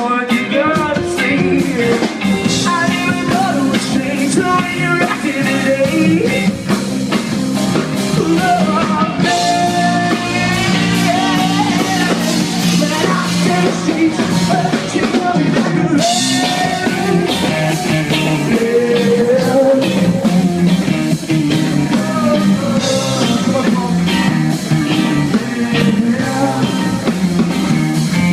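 Rock band playing live: drums and electric guitar under a singer's vocal, loud and continuous.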